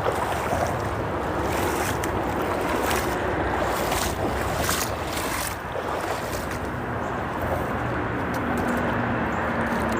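Steady rushing noise of the flowing stream mixed with the drone of freeway traffic on the bridge overhead.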